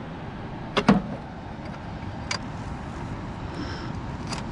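Hardware being hooked onto a rooftop tent: two sharp knocks about a second in, then a few lighter clicks, over a steady low background rumble.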